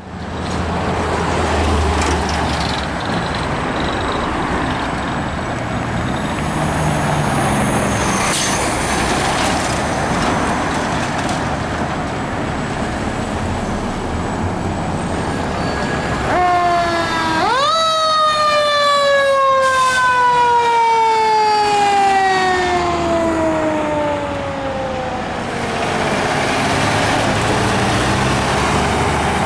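Emergency vehicles responding to a call: steady road and engine rumble, then about halfway through a siren climbs sharply in pitch and falls slowly over several seconds.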